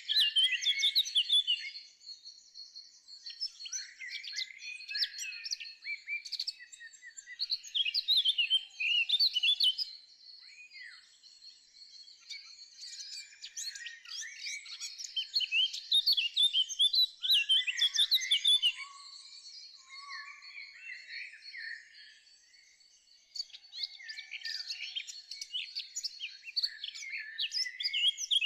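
Songbirds singing: rapid, high twittering and chirping phrases that overlap and come in bursts of a few seconds, with a thin steady high tone beneath them.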